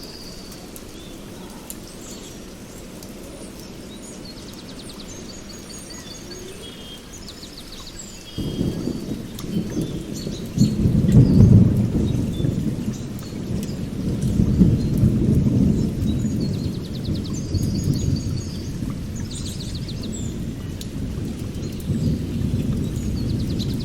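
Small birds chirping and trilling throughout. About a third of the way in, a low rolling rumble of thunder sets in suddenly, grows loudest a few seconds later, then swells and eases in waves.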